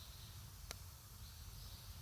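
Wood campfire burning, with one sharp crackle a little under a second in over a faint low rumble.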